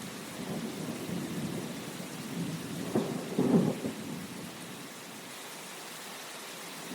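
Steady rain with low rolls of thunder; the loudest thunder rumble starts sharply about three seconds in and dies away within a second.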